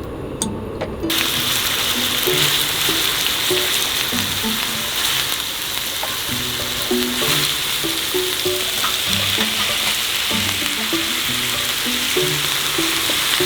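Food sizzling in a hot pan, a steady frying hiss that starts suddenly about a second in, with background music playing under it.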